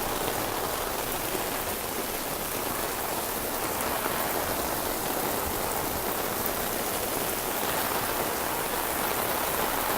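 Rain falling steadily in a downpour, an even hiss without a break.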